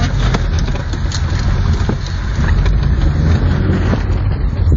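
Car noise: a steady low rumble of engine and road, with a few faint ticks.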